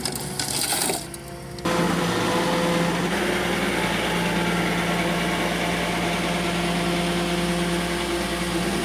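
Heavy diesel engine running steadily at a constant, unvarying pitch. It cuts in abruptly a little under two seconds in, after a brief stretch of hiss.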